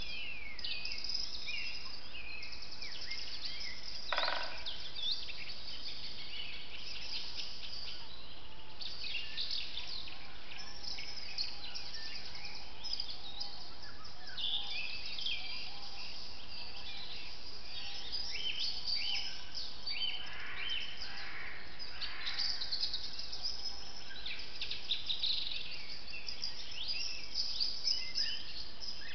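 Forest birds singing and calling, many overlapping chirps and trills, over a steady hiss; one louder, lower call stands out about four seconds in.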